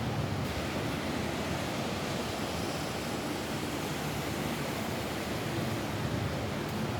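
Steady rain falling on a roof: a dense, even hiss of drops with no separate drips or gusts.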